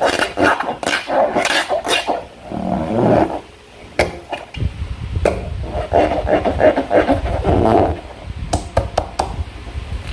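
Slime being squeezed and worked with rubber balloons: irregular sticky squelches and rubbery squeaks, with sharp clicks about four and five seconds in and a quick run of clicks near the end.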